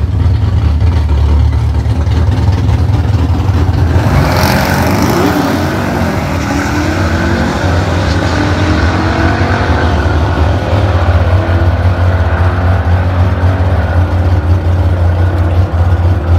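Two drag-racing cars launching off the starting line about four seconds in, their engines revving hard and climbing in pitch again and again as they shift up and pull away down the strip. A steady low drone runs underneath.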